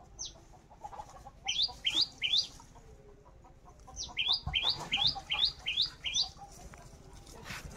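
A bird calling in short, high, upward-sweeping chirps repeated about three times a second: a run of three, a pause, then a run of about seven.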